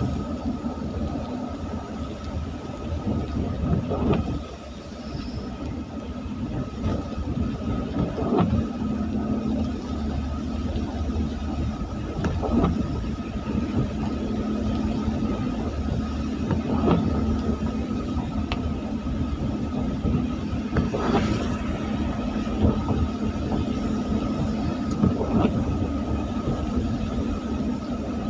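Road vehicle driving on a rain-wet road: steady engine and tyre noise with a faint constant whine, and a short swish about every four seconds.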